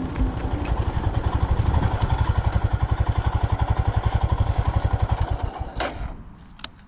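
Royal Enfield Himalayan's single-cylinder four-stroke engine idling with an even, rapid thumping of about ten beats a second, then cut off about five and a half seconds in, followed by a click.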